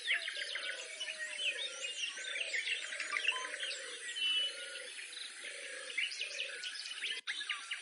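Wild birds calling: a dense mix of high chirps and whistles over a low, arched call of about half a second, repeated every half second or so. The sound cuts out briefly near the end.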